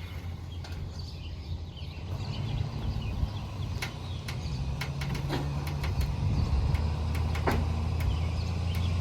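A vehicle engine running steadily and growing gradually louder, with scattered sharp clicks and clanks over it.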